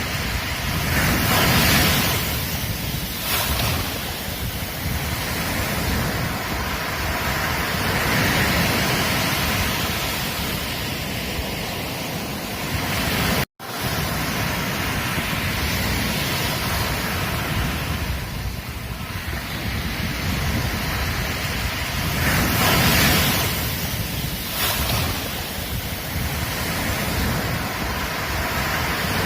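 Ocean surf breaking on a beach: a continuous wash that swells and ebbs as the waves come in. The sound cuts out for an instant about halfway through.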